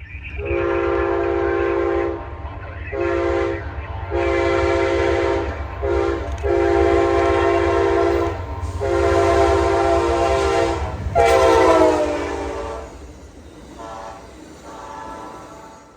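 Locomotive air horn sounding a series of long and short blasts, the chord of several tones dropping in pitch on the last blast as the train passes, over the steady low rumble of the moving train.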